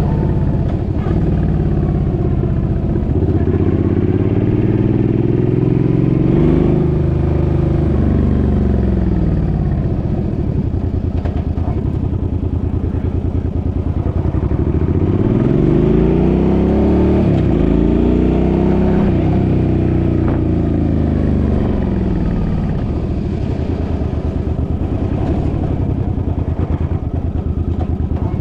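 Suzuki's engine running under way, its pitch rising and falling twice as it speeds up and slows, over a steady low rumble.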